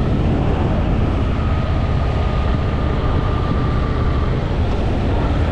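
Honda Shadow VT750's V-twin engine running at a steady cruise, its low rumble mixed with wind and road noise over the microphone. A faint thin whine comes in about a second in and fades out a little after four seconds.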